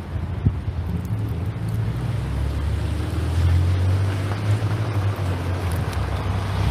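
Wind buffeting the microphone: a steady low rumble that swells about halfway through.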